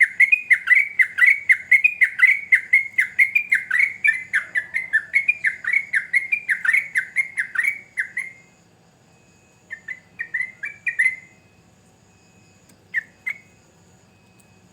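Yellow-vented bulbul singing: a fast, rhythmic run of chattering notes, about four a second, that breaks off after about eight seconds. A few more short notes follow a couple of seconds later, and two more come near the end.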